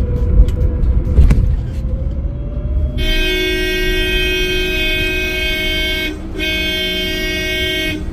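Electric bus's rear-mounted traction motor whining over road rumble, its pitch dipping and then rising again with speed: the constant whine heard in the rear seats, like a pest-repeller buzz. About three seconds in, a vehicle horn sounds long and steady, breaks off briefly about six seconds in, then sounds again until near the end.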